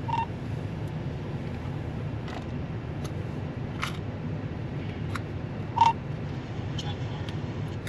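Vehicle engine running steadily, heard from inside the cab as a low hum, with a handful of short clicks and creaks scattered through it; the loudest comes about six seconds in.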